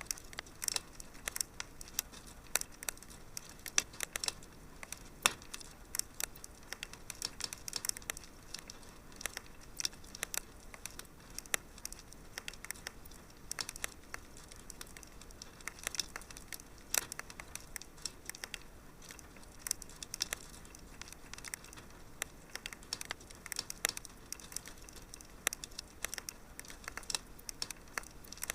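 Fire crackling in a fireplace: a steady stream of irregular sharp snaps and pops, some louder than others, over a faint steady hiss.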